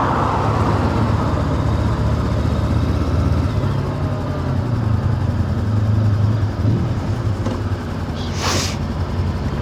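Motorcycle engine running steadily under way, with wind and wet-road tyre noise and a short hiss about eight and a half seconds in.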